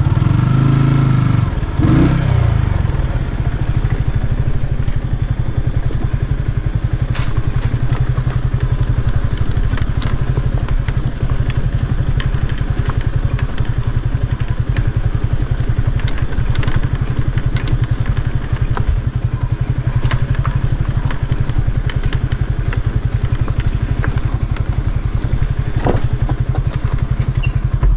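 Motorcycle engine running steadily while riding along the road, with scattered light knocks and rattles.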